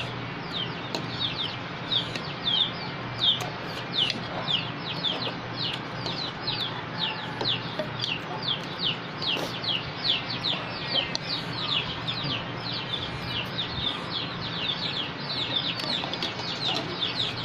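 Chicks peeping without a break: a steady stream of short, high, falling cheeps, several a second, over a steady low hum.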